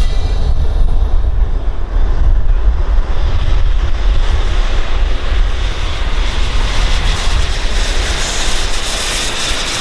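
Turbine-powered radio-controlled T-33 model jets flying, giving a steady jet noise with a heavy low rumble underneath. A faint high whine rises slowly over the first few seconds.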